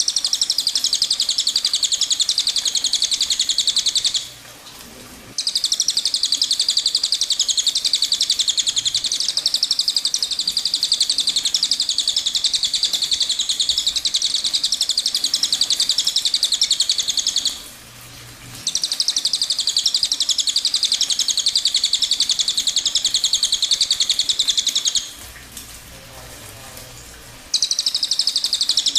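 Cililin songbird singing its rapid, dense high-pitched trill in long runs: one of about four seconds, one of about twelve, one of about six, each broken off by a short pause, with a new run starting near the end.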